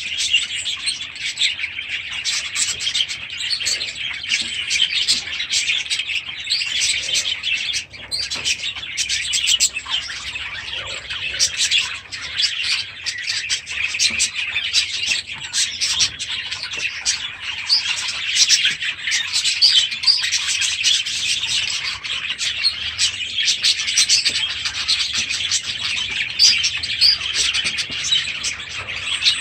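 A flock of budgerigars chattering and chirping together without a break.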